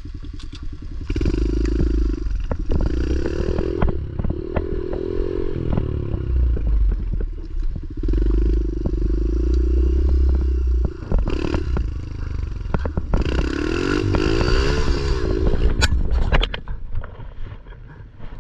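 Pit bike engine revved hard in four long bursts, its pitch climbing and dropping with each twist of the throttle during a wheelie attempt, with clattering knocks throughout.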